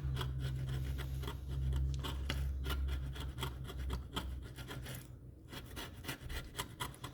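Hard carbon buildup being scraped by hand off a Ski-Doo E-RAVE exhaust power valve: many short, uneven scraping strokes. A low steady hum underneath fades out about four seconds in.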